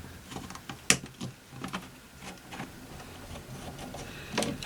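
Scattered small clicks and taps of a radio's case and parts being handled during disassembly, the sharpest a little under a second in.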